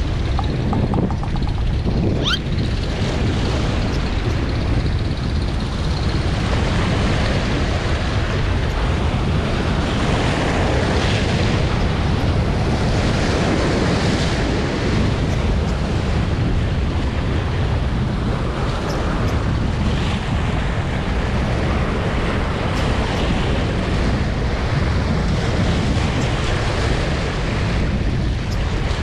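Strong wind buffeting the microphone in a steady rumble, with waves washing against the shore behind it.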